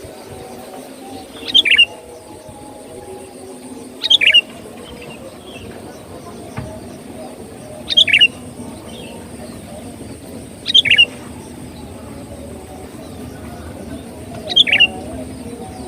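Sooty-headed bulbul (kutilang) giving short, sharp calls, five times, a few seconds apart. Each call is a quick phrase that drops in pitch. A faint steady high hiss sits underneath.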